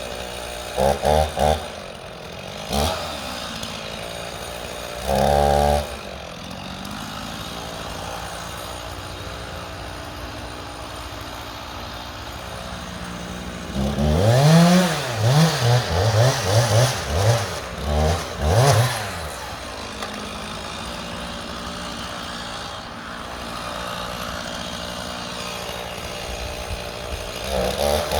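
Two-stroke chainsaw idling, with a few short throttle blips early on, a run of repeated revving up and down in the middle, and a rev-up to full speed at the very end.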